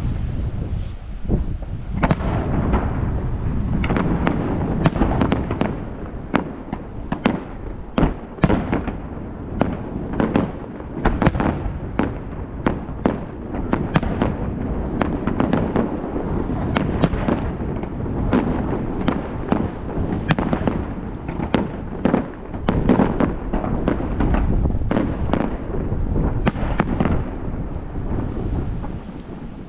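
Aerial fireworks display: a dense run of sharp bangs and crackles, many in quick clusters, over a continuous low rumble of booming shells.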